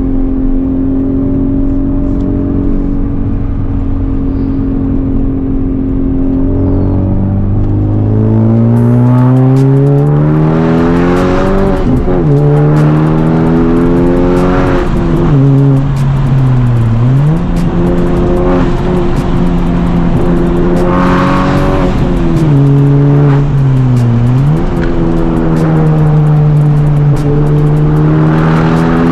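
Honda Civic Type R (FL5) turbocharged four-cylinder, with a catless downpipe and its resonators deleted, being driven hard. The engine note holds steady at first, climbs through the revs, then drops sharply and climbs back again about four times between stretches of steady pitch.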